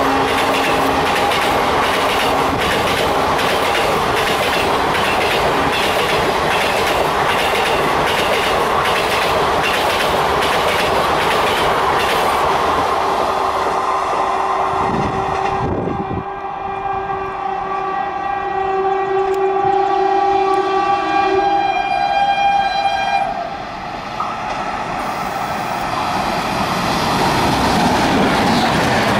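Passenger coaches of an express train passing at speed, their wheels clattering rhythmically over the rail joints for the first dozen seconds or so. About halfway through, an approaching WAP-7 electric locomotive sounds a steady two-tone horn for about seven seconds, and near the end the rush of the locomotive and its coaches passing close swells up.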